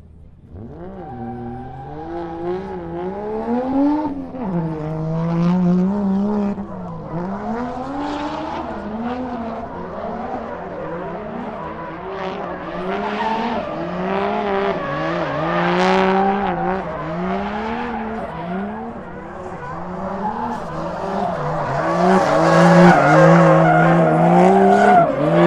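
Drift car engines revving hard and falling back over and over, about once a second, with tyres screeching as the cars slide through the course. Loudest near the end as they come closest.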